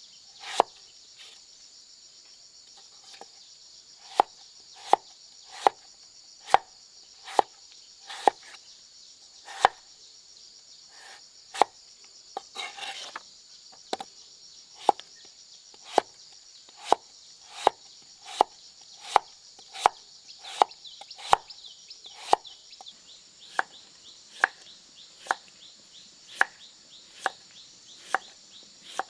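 Steady chopping with a blade, one sharp stroke about every 0.8 s after a short pause near the start, over a continuous high insect drone. A brief scraping rustle comes about halfway through.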